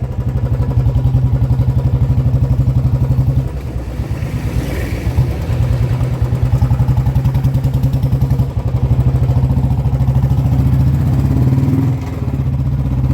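Royal Enfield 350 single-cylinder engine with a loud modified exhaust, thumping steadily as the motorcycle is ridden; the sound dips briefly three times.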